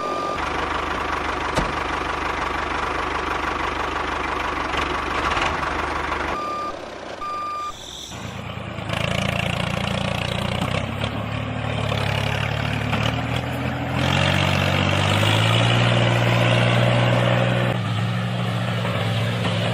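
A DIY mini tractor's motor running steadily, with short electronic reversing beeps twice a little over six seconds in. After about eight seconds a deeper, stronger motor hum takes over and grows louder near the middle.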